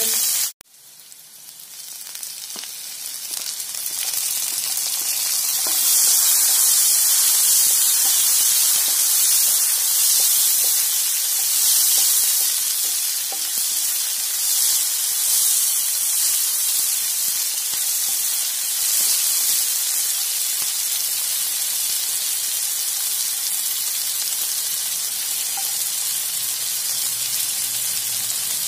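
Chopped onion, green chillies, curry leaves and tomato sizzling in hot oil in a non-stick frying pan while a wooden spatula stirs them. After a brief dropout at the very start, the sizzle builds over the first few seconds and then holds steady.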